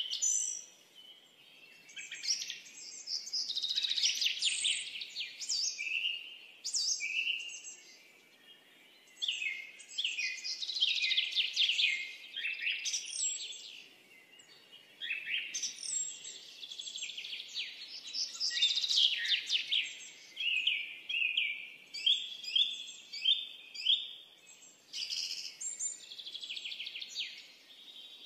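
Birds singing: fast trills and chirping phrases, one to three seconds each, following one another with short pauses.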